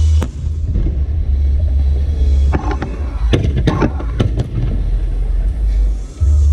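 Fireworks display: a deep, continuous booming rumble, with a cluster of sharp crackling bangs in the middle.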